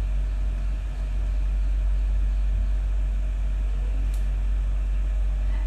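Steady low hum with no other clear event.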